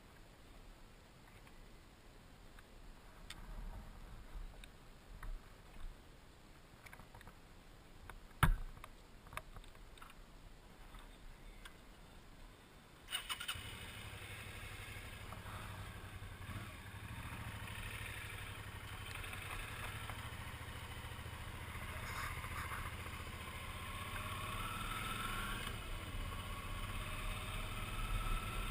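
A few faint clicks and one sharp knock, then about halfway through a Suzuki V-Strom 650's V-twin engine starts and keeps running steadily, slowly growing louder.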